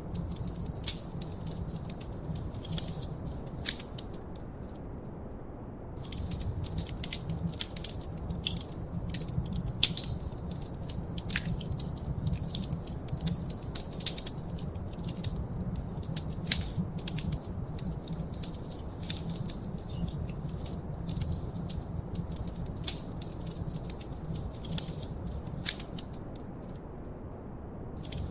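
Wood fire in a fireplace crackling: dense small pops and snaps over a low steady rumble. The crackle drops out for a second or two about five seconds in and again near the end.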